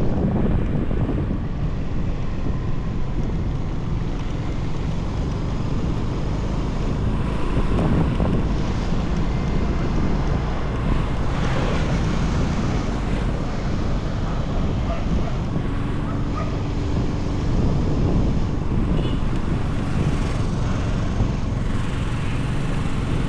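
Wind buffeting the microphone on a moving motorbike: a steady low rush, with the bike's engine and road noise beneath it.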